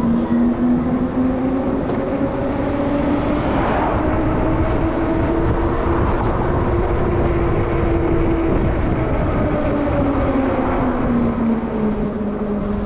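Denzel Samurai electric dirt bike's motor whining under road and wind noise, its pitch rising as it speeds up, holding, then falling again near the end as it slows.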